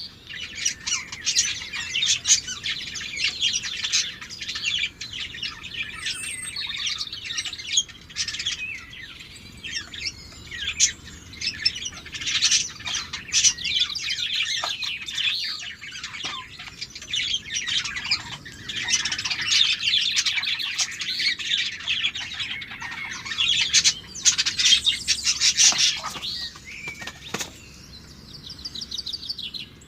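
A flock of small aviary birds chirping continuously, many high calls overlapping, with short sharp clicks scattered among them.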